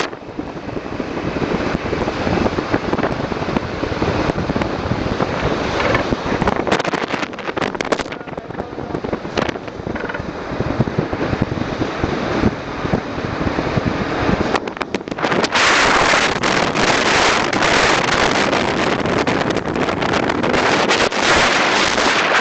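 Wind rushing over the microphone with a motorcycle running, as a steady rough noise that gets louder about two-thirds of the way in.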